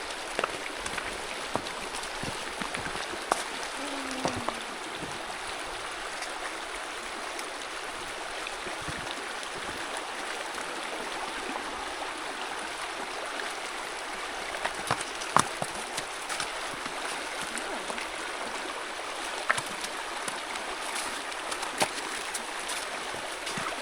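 Creek water running steadily with a continuous rushing babble, broken now and then by short sharp knocks.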